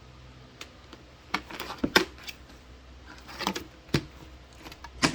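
Plastic clicks, knocks and clatter from the portable foldable washing machine being handled, in several short clusters.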